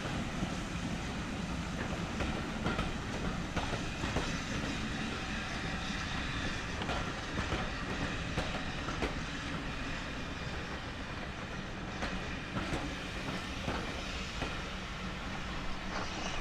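Train running along the line, its wheels clicking over the rail joints above a steady rumble.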